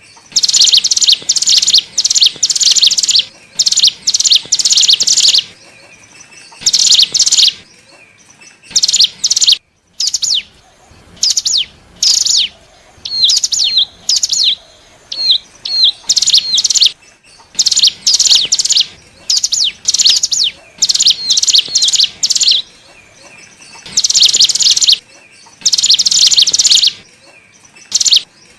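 Ciblek gunung (cigun), a prinia, singing loud bursts of rapid, high-pitched chirping notes, each burst lasting a second or two with short pauses between. Partway through, the song changes to a string of quick, separate falling notes before the fast bursts resume. This is a lure call used to draw wild cigun.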